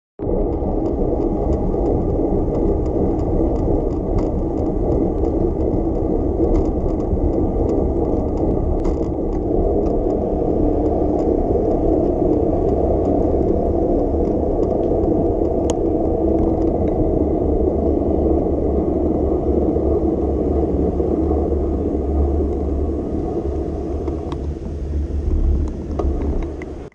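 Steady rumble of road and wind noise from a moving bicycle, with light scattered clicks and rattles; the noise drops off suddenly at the very end.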